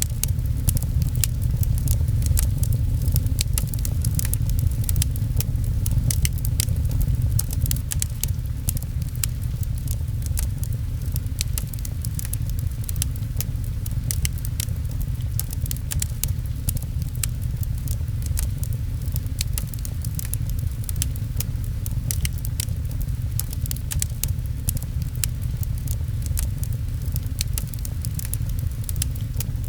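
Fireplace fire crackling with frequent sharp pops over a steady low rumble, mixed with rain pattering.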